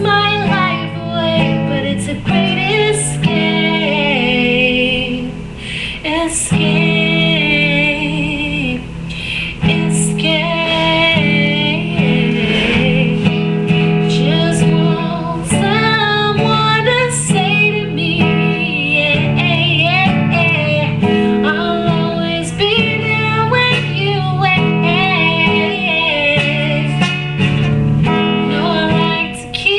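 A woman singing a song while strumming a guitar, playing simple open chords (A, E, D and G) at a beginner's level. The melody bends up and down over the steady strumming, with a short lull about six seconds in.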